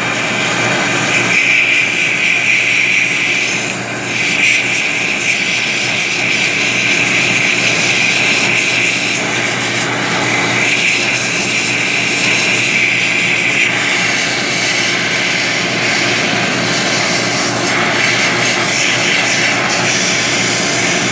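Steady hiss of a low-volume water-spray cleaning probe working over a running pump, with the steady hum of the running engine-room machinery underneath. The hiss dips briefly about four seconds in.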